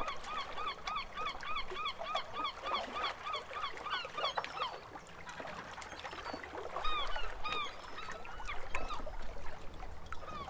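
A bird calling in a quick, even series of short, arched notes, about four a second, then breaking off into a few scattered calls later on.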